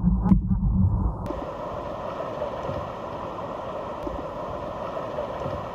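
Muffled low rumbling with a few knocks for about a second, then a sudden change to the steady rush of whitewater in a stream rapid.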